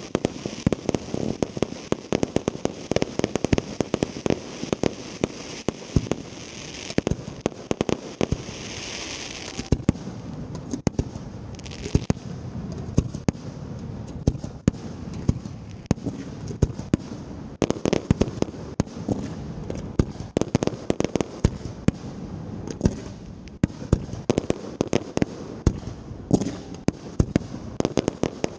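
Fireworks display: a dense, uneven run of sharp bangs from aerial shells and multi-shot cakes launching and bursting, several a second. For about the first nine seconds a hissing crackle runs under the bangs.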